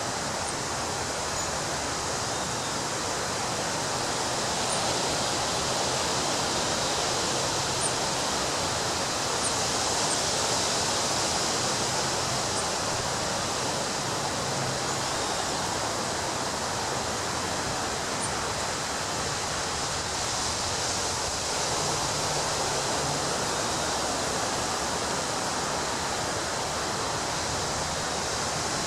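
Ocean surf breaking on a beach: a continuous, even wash of waves that swells slightly about a third of the way in.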